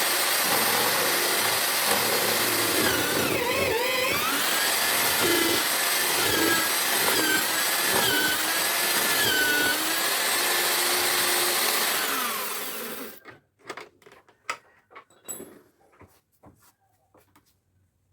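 Homemade drill-based mortising machine running and cutting into wood, its motor pitch dipping and recovering under load. It stops about thirteen seconds in, followed by scattered knocks and clicks.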